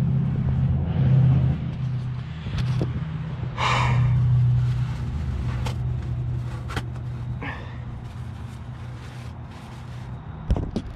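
A low steady rumbling hum, loudest in the first few seconds and then fading, with scattered clicks and knocks and a short rushing noise about four seconds in.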